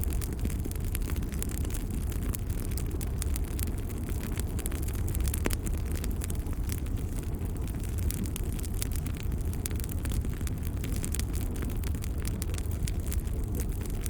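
Wood fire crackling in a fireplace: frequent small pops and snaps over a steady low rumble of the burning fire.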